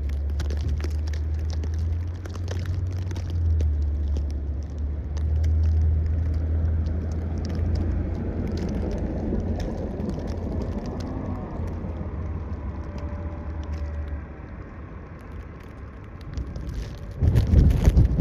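Outdoor street ambience in a snowstorm: a steady low rumble that falls away about fourteen seconds in, then a loud gust of wind on the microphone near the end.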